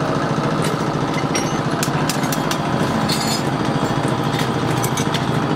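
A small motor running steadily with a fast, even pulse, and scattered sharp clicks over it.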